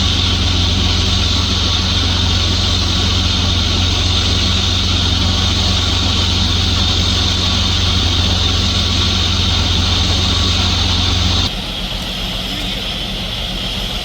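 An engine running steadily at idle, a low hum under a steady hiss, which drops abruptly to a quieter level about two-thirds of the way through.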